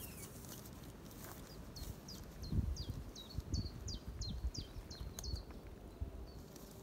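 A small bird singing a run of about a dozen short, high notes, each dropping in pitch, roughly three a second. Underneath are low thumps and rustling from the tent's flysheet being pulled and adjusted, the strongest thump a little past halfway in.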